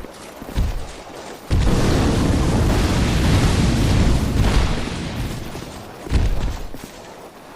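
Booming sounds: a loud, deep rumble that starts about a second and a half in and dies away over a few seconds, with a shorter thud near the end.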